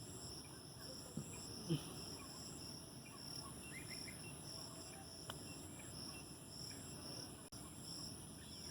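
Insect chorus, crickets trilling: a high chirp pulsing about three times a second over a continuous high whine, with a few faint short calls about a second and a half in.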